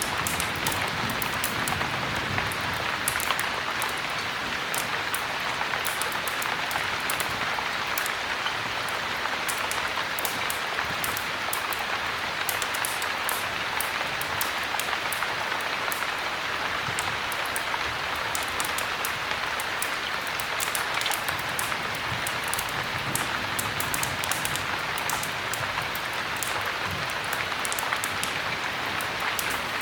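Steady heavy rain, with a wood fire crackling in frequent sharp little pops over it.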